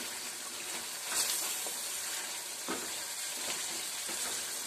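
Chicken karahi sizzling and frying in a steel karahi while it is stirred with a wooden spoon, the sauce mostly cooked down at the bhuna stage. A steady sizzle, with two short louder strokes of the spoon, about a second in and near the middle.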